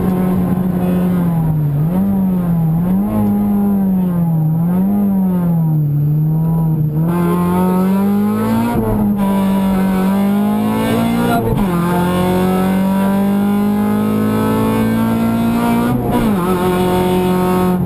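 Honda Civic VTi rally car's four-cylinder engine at full stage pace, heard from inside the cabin. The revs rise and fall in quick swings through a run of bends, then climb through the gears with three upshifts, each a sudden drop in pitch: one about nine seconds in, one near the middle and one near the end.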